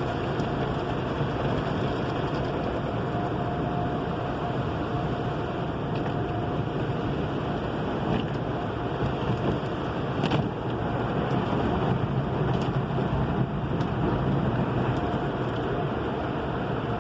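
Car wash running: a steady rush of spraying water with a faint steady tone under it and a few brief knocks.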